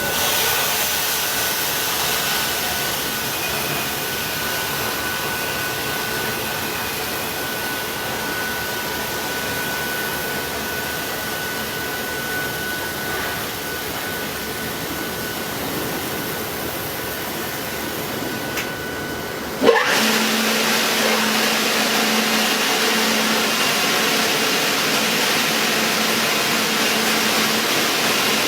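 Car wash machinery running: a steady rushing noise, which after a sharp click about 20 seconds in gives way to a louder rush with a low hum.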